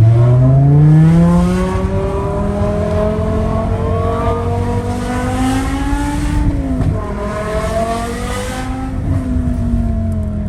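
BMW E60 M5's V10 engine, straight-piped with no catalytic converters, accelerating hard. The note climbs, drops sharply at a gear change about seven seconds in, climbs again, then eases off near the end.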